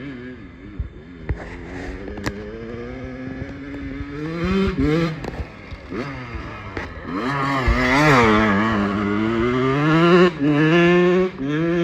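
Small dirt bike engine revving, its pitch climbing and dropping over and over as the rider works the throttle. It gets louder from about seven seconds in.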